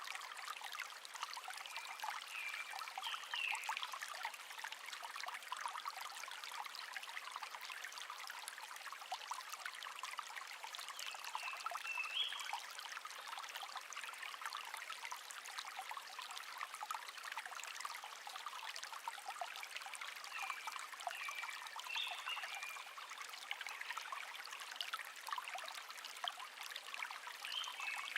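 Shallow stream babbling steadily over stones, with a wild bird singing a short chirping phrase four times, roughly every eight or nine seconds.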